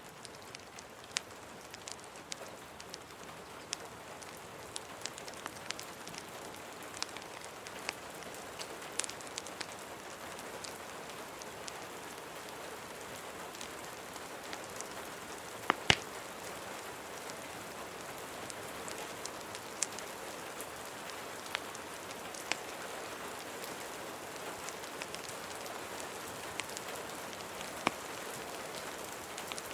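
Steady rain falling, swelling in over the first few seconds, with scattered sharp crackles and pops from a wood fire; the loudest is a quick pair of pops about sixteen seconds in.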